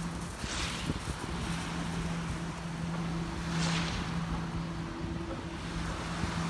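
Sea waves breaking and washing up the beach about every three seconds, over wind buffeting the microphone. A steady low motor hum runs underneath.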